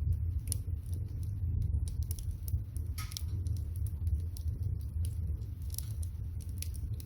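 Wood fire burning under a pot of water being boiled: scattered sharp crackles and pops over a steady low rumble.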